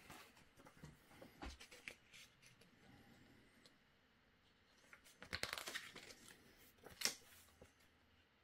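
Faint handling noises of printer parts being worked by hand: scattered small clicks and rustles, a denser patch about five seconds in and one sharp click about seven seconds in.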